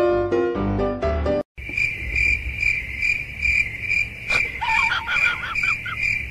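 A few piano notes that cut off, then steady cricket chirping, about three pulses a second. About halfway through comes a run of short, high, wavering cries.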